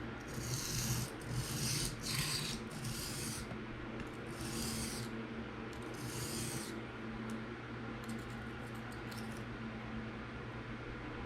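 Steel knife blade drawn edge-trailing across a diamond sharpening plate in light, separate scraping strokes, six in the first seven seconds, then a few faint short scratches. These are burr-removal strokes, fatiguing the burr off the freshly sharpened edge.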